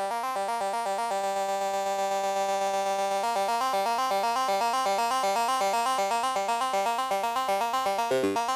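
Arturia MicroFreak synthesizer arpeggiating its SawX oscillator, a modulated sawtooth: a bright, buzzy synth tone stepping quickly between notes. About a second in it holds a single note for around two seconds, then the arpeggio resumes and grows brighter.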